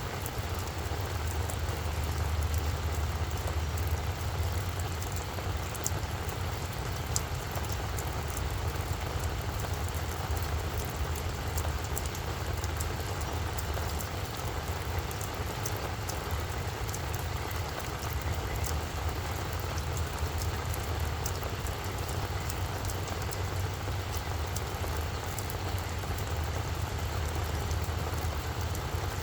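Steady rain falling on a flower bed, with many scattered sharp drop ticks over an even hiss and a steady low rumble underneath.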